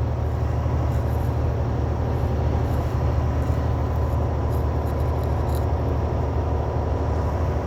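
Steady drone of a semi truck's diesel engine and road noise heard from inside the cab while driving at highway speed.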